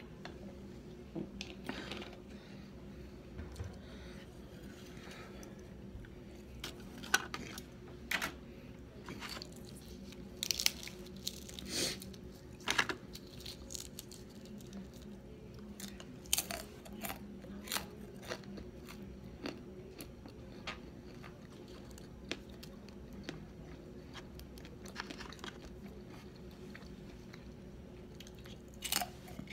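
Close-up chewing and biting into crispy fried wontons, with scattered sharp crunches that come thickest around a third of the way in and again near the end.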